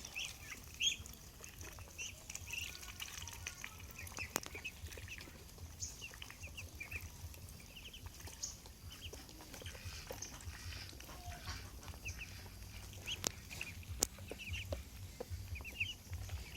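Ducklings peeping continually in many short, high cheeps, with a few sharp clicks among them.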